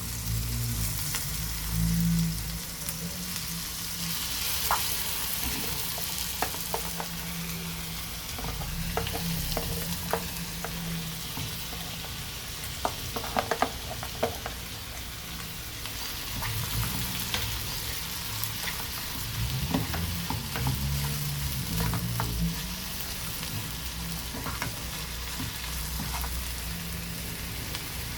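Food sizzling in hot coconut oil in a cooking pot, stirred with a spoon that clicks against the pot now and then, with a cluster of clicks about halfway through.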